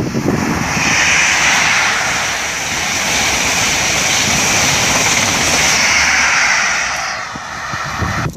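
A train running through the station at speed, a loud steady rush of wheel, rail and air noise that eases off near the end as it passes.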